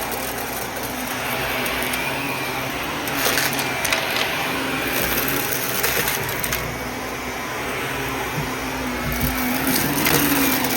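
Vacuum cleaner running steadily with a motor hum, its airflow hiss swelling and easing as it is worked back and forth.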